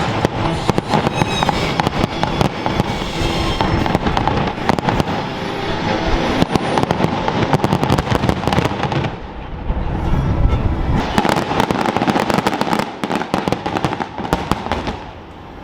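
Fireworks going off in quick succession: a dense run of bangs and crackles, easing briefly about nine seconds in, then building again.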